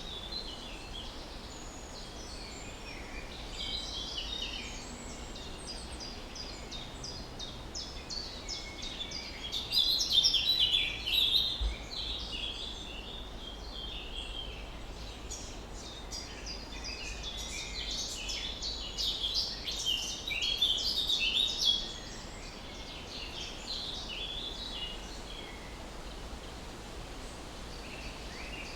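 A chorus of small songbirds chirping and twittering, with many short high calls overlapping. It grows louder in two busy flurries, about ten seconds in and again around twenty seconds in, over a faint steady low rumble.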